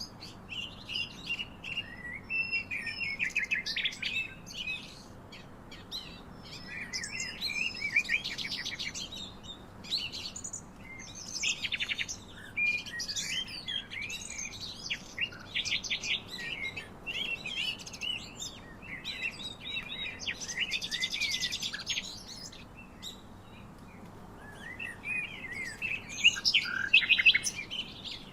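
Several songbirds chirping and trilling, many short calls overlapping, with a brief lull a few seconds before the end.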